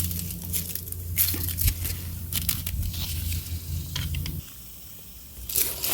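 Tomato plant leaves and stems rustling and snapping as ripe tomatoes are picked by hand, in irregular crackly bursts. A low steady hum underneath stops abruptly about four seconds in.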